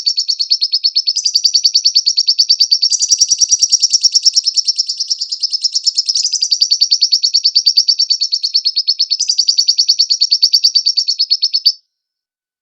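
Lovebird singing a long, unbroken trill of rapid, high chirps, about nine a second, its phrasing shifting every second or two. It cuts off suddenly just before the end.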